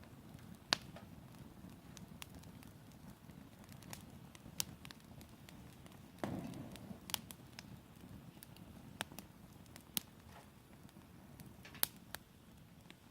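Campfire burning: scattered sharp pops and crackles a second or two apart over a low steady rumble of the flames, with a brief louder surge about six seconds in.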